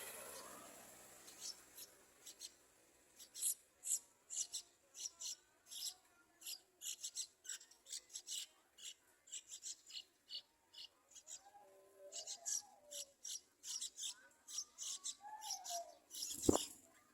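Yellow-vented bulbul nestlings begging for food: short, high, raspy calls repeated in quick irregular runs, with a single sharp knock near the end.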